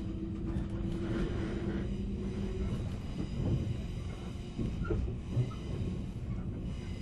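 Onboard running noise inside a 485-series electric motor car: a steady low rumble from the bogies and track, with a hum that fades out about two and a half seconds in and a single thud about five and a half seconds in.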